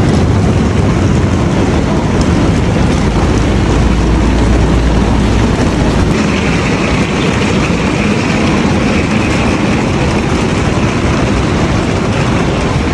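Train running, heard from inside: a steady rumble and rushing noise, with a higher hiss joining about six seconds in.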